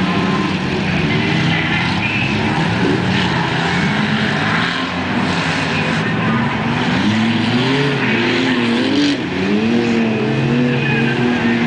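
Several demolition derby junk cars' engines running together. From about halfway in, one engine revs up and down repeatedly, its pitch rising and falling.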